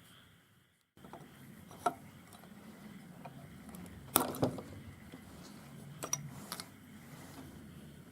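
Small metal carburetor parts and hand tools clinking and tapping against a hard work surface: a few light separate knocks, the loudest pair about four seconds in and another cluster around six seconds.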